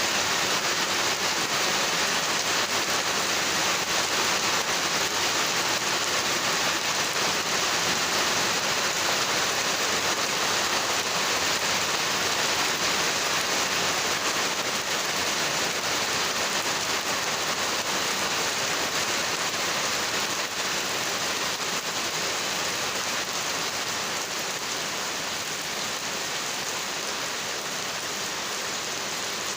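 Heavy rain falling steadily, a dense even hiss of many drops; it eases slightly about two-thirds of the way through.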